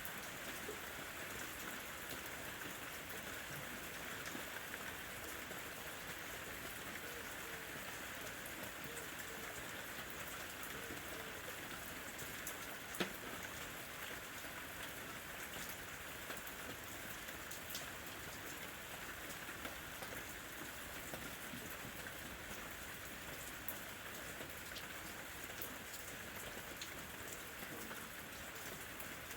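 Steady rain falling, a dense even patter of drops. One sharp, louder tap stands out about thirteen seconds in.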